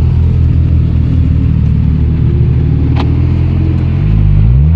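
Porsche 911 (991) Carrera GTS flat-six through an aftermarket IPE exhaust, running at a steady low drone. A sharp click comes about three seconds in, and the revs rise near the end.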